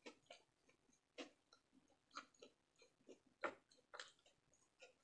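Faint mouth sounds of a person chewing food, a few soft, separate wet clicks and smacks about a second apart.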